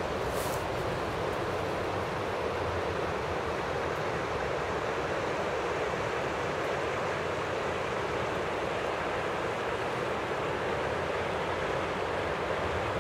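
Steady rushing noise of a Boeing twin-jet airliner's engines at takeoff power, even in level throughout.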